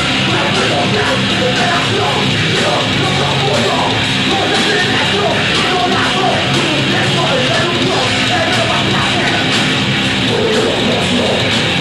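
Heavy metal band playing live, loud and steady, with drums hitting in an even rhythm under shouted vocals.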